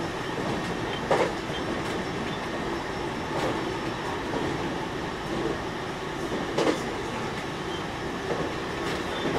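E721-0 series electric multiple unit running at speed, heard from inside the car: a steady rumble of wheels on rail, with sharp clacks about three times.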